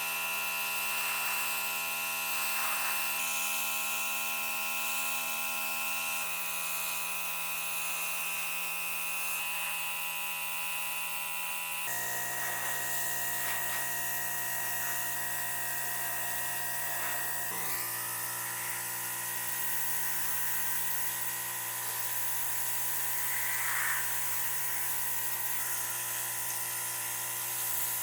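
Small high-speed electric motor whining steadily, shifting to a lower pitch about twelve seconds in.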